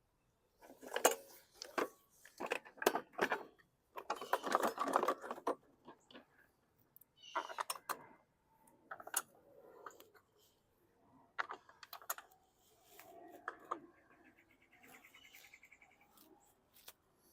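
Metal tools and small parts clinking and rattling as they are handled, in irregular bursts of clicks and clanks, with a brief fast ticking near the end.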